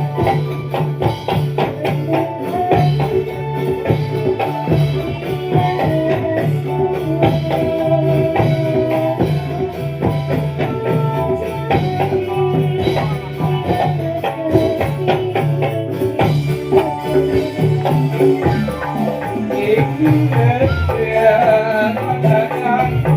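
Live dolalak dance accompaniment: an instrumental passage with a steady drum beat, jingling tambourine-like percussion and a held melody line.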